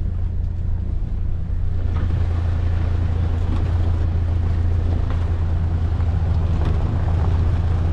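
Four-wheel-drive vehicle's engine running with a steady, loud low drone, with some wind noise over it.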